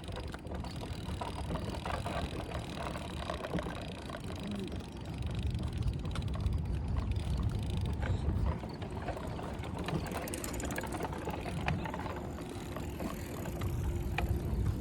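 Wind rumbling and buffeting on a phone microphone outdoors, a steady low rough noise with a few faint clicks.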